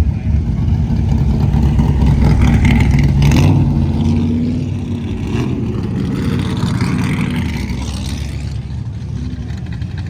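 A car engine running with a loud, deep exhaust note, loudest for the first few seconds and then dropping off somewhat as the car moves away.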